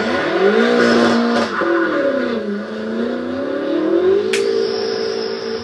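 BMW M5 F90's twin-turbo V8 accelerating hard as the car drives away. The revs climb, break and drop about a second and a half in at a gear change, then climb again and hold. A single sharp crack comes about four seconds in.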